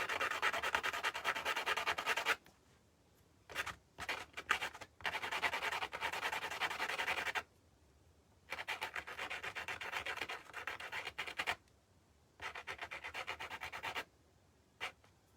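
Sanding the freshly cut end of a small perch piece: rapid back-and-forth rubbing strokes in about five spells, with short pauses between them.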